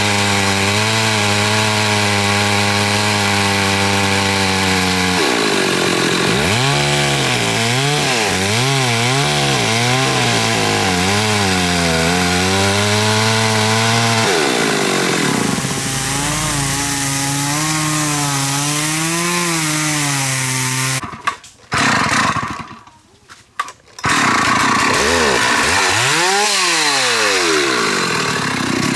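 Chainsaw running hard while cutting into a large khaya tree, its engine note steady at first, then wavering up and down as it loads and frees in the cut. The sound cuts out almost completely for about three seconds near the end, then the saw comes back with its pitch swinging.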